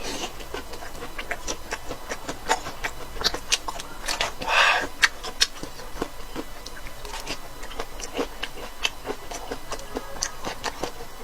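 Close-up chewing and mouth sounds: many quick, irregular wet clicks and smacks while eating blistered peppers, with a short louder noisy chew about four and a half seconds in.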